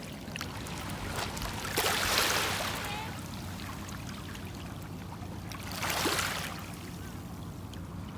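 Sea waves washing in twice, about four seconds apart, each swell rising and fading, over a steady low hum.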